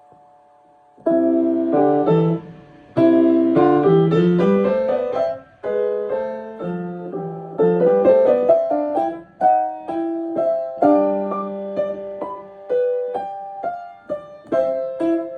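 A piano being played, starting about a second in: chords and running note figures of a practice piece, broken by brief pauses between phrases.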